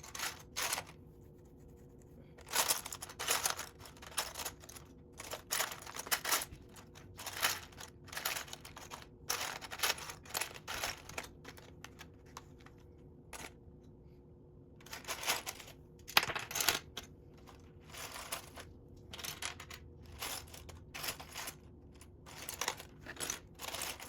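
Loose plastic Lego pieces clattering and clicking in irregular bursts as hands rummage through a pile, searching for parts, with a few short pauses.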